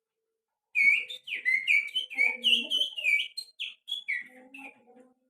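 A person whistling through the fingers, using the little finger, in imitation of a white-rumped shama's (murai batu) song. A quick run of short whistled notes swoops up and down. It starts about a second in and fades out near the end.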